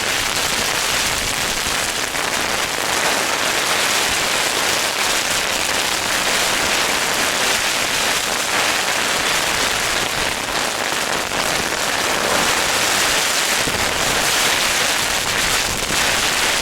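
Heavy rain pattering steadily and loudly on a tent's flysheet, heard from inside the tent.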